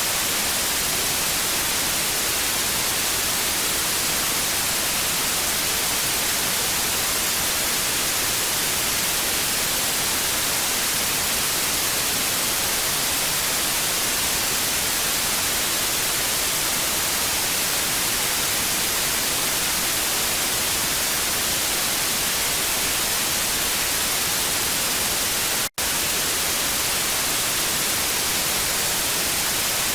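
Steady hissing TV static noise, heavier in the high end, that cuts out for a split second about 26 seconds in.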